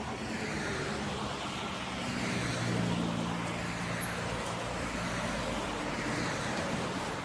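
A motor vehicle going past, its engine and tyre noise growing louder to a peak about three seconds in and then fading.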